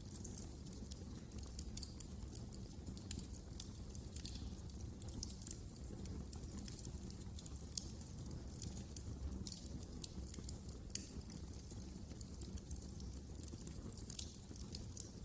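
Wood fire crackling in a fireplace: frequent small, irregular pops and snaps over a steady low rumble of the flames.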